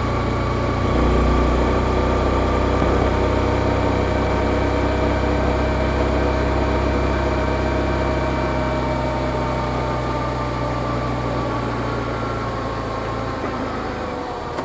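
Yamaha XSR155's single-cylinder engine through its stock exhaust, heard from the rider's seat, running steadily with the revs easing slowly downward. The level dips briefly near the end.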